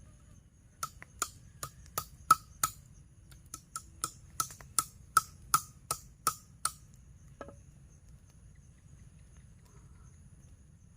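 A quick series of about eighteen sharp knocks, each with a short ring, about three a second, stopping after roughly six seconds, over the steady high buzz of insects.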